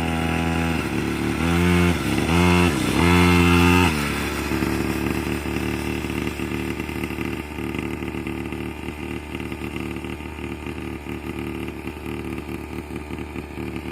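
Small 49cc mini quad bike's two-stroke engine, a newly fitted high-performance engine, revved up and down in several bursts in the first four seconds, then running steadier at lower revs with small rises and dips.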